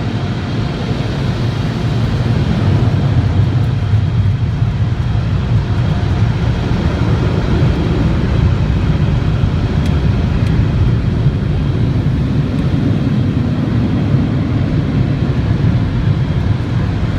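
Tunnel car wash blow dryers running: a loud, steady rush of air blasting over the car, heard from inside the car on the conveyor, growing louder about two seconds in.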